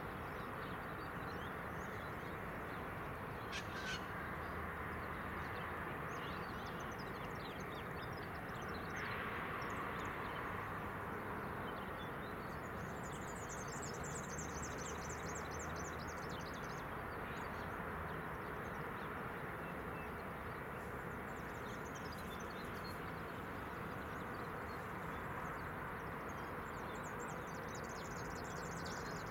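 Crow-like cawing and bird chirps, with bursts of high chirping about halfway through and again near the end, over a steady low background rumble.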